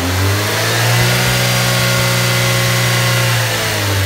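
Skoda Rapid's 1.6-litre MPI four-cylinder petrol engine (CWVA) revving up over the first second and holding steady at about 3000 rpm, then easing back down near the end.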